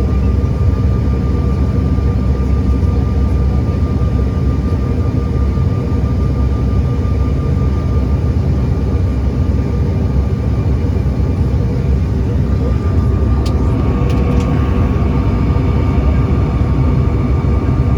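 Steady engine and air rumble inside the passenger cabin of an American Eagle airliner, with a thin constant tone above it and a few faint clicks about thirteen seconds in.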